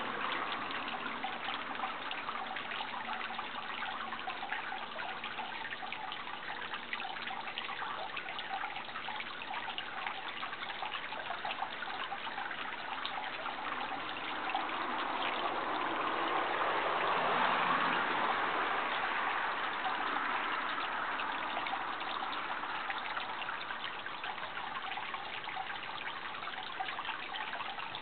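Water trickling and running steadily, like a small stream or outflow, with a gentle swell in level about halfway through that then fades.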